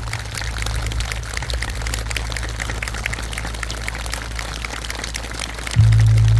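Surf washing on the shore, a steady crackling hiss, over a low steady electrical hum from the sound system that jumps louder near the end.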